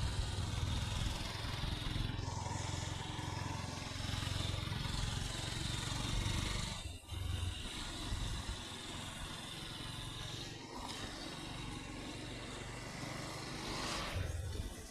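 Honda CB200X motorcycle's single-cylinder engine running steadily on the move, with a brief break about seven seconds in and another near the end.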